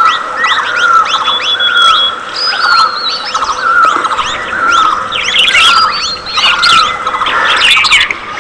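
A flock of budgerigars chirping and chattering, with one falling chirp repeating a little more than once a second over quicker, higher chirps.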